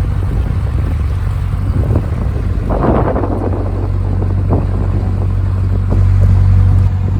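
Narrowboat engine running steadily under way, a constant low hum, with a brief rush of noise about three seconds in.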